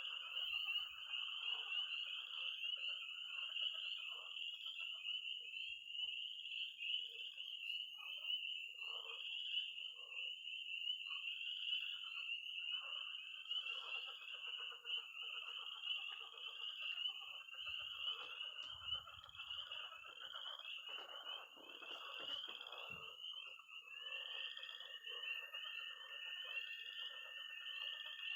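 Early-spring night frog chorus: many spring peepers peeping in a dense, high-pitched, pulsing mass. Beneath it are the lower croaks of pond frogs. Near the end, a toad starts a long, steady high-pitched trill over the chorus.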